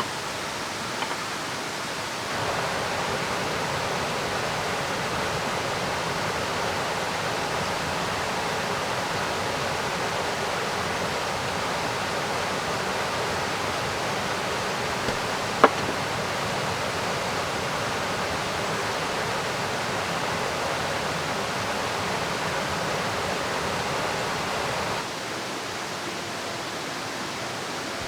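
Steady rushing of a river with rain, a continuous even hiss that swells a little louder about two seconds in and falls back near the end. One sharp click stands out about halfway through.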